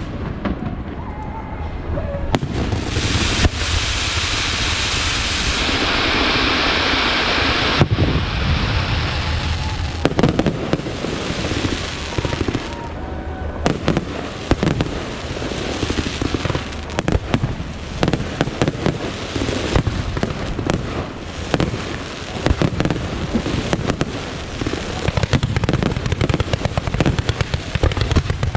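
Aerial fireworks display: a dense, continuous barrage of bangs and crackling pops. A heavy sustained crackling hiss runs from about two seconds in until about ten seconds in, then gives way to rapid irregular bursts.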